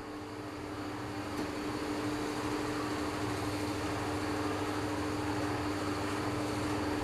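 Electric standing fan's motor running with a steady hum, getting slightly louder over the first couple of seconds and then holding even.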